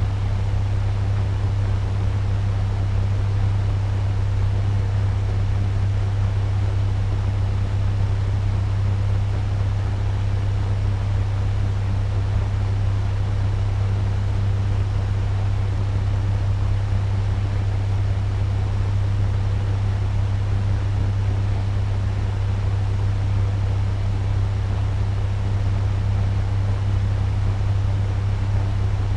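Turbo fan running steadily at medium speed: an even rush of air over a strong, steady low hum.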